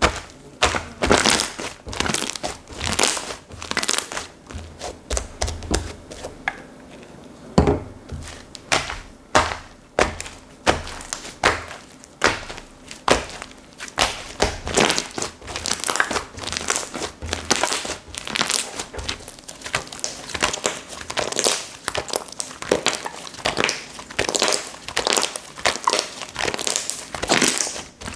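Soft slime being squeezed, stretched and folded by hand. It gives crinkly, crackling squishes in irregular bursts about once or twice a second.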